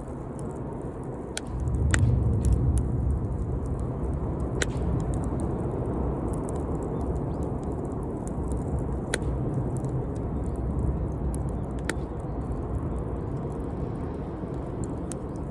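Campfire burning: a steady low rumble with scattered sharp crackles and pops from the burning wood, the rumble growing louder about two seconds in.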